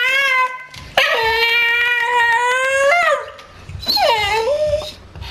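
Staffordshire bull terrier making long, high whining howls, three in a row, the second held about two seconds and the last one shorter, dipping and then rising in pitch.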